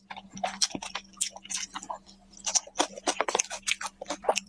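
Close-miked noodle eating: slurping and chewing with many irregular wet mouth clicks and smacks, thickest about two and a half to three and a half seconds in, over a faint steady hum.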